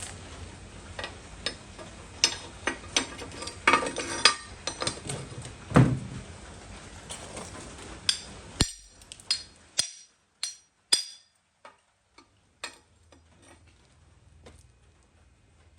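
Irregular knocks and clinks, like metal objects being struck or handled, over a steady hiss. The hiss cuts off suddenly about halfway through, after which single sharp taps continue at uneven intervals.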